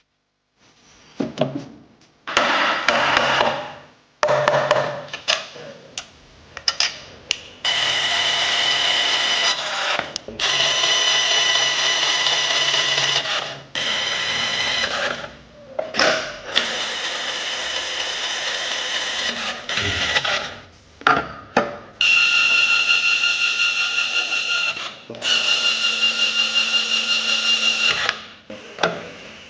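Handheld electric power tool, drill-like, running in repeated runs of a few seconds each with a steady whine. Short clicks and knocks come between the runs.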